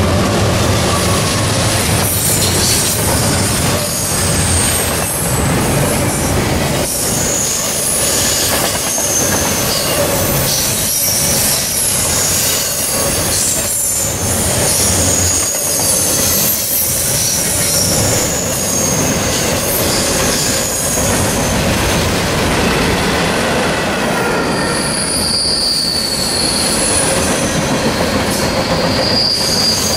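CSX mixed freight train passing at speed: a steady rumble of rolling cars, wheels knocking over rail joints, and high wavering wheel squeal. The locomotive's engine drone fades within the first second as it goes by.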